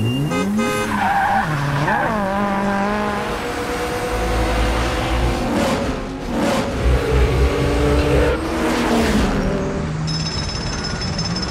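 Car engines revving, their pitch climbing and falling several times, with tyres skidding.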